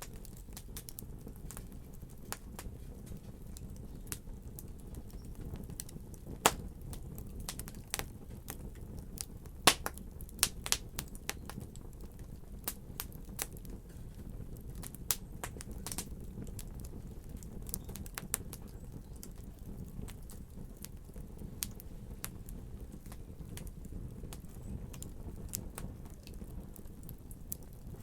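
Wood fire in a fireplace crackling, with irregular sharp pops over a steady low rumble of flames. The loudest pops come about six and ten seconds in.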